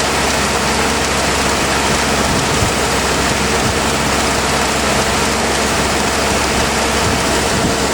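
An engine running steadily under a loud, constant hiss, with an even low hum and no change in pitch.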